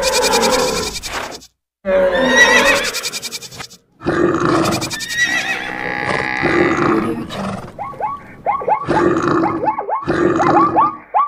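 A string of mixed animal call sound effects, roars and grunts cut one after another, broken by two brief silent gaps in the first four seconds. From about eight seconds in come many short, falling calls repeated in quick succession.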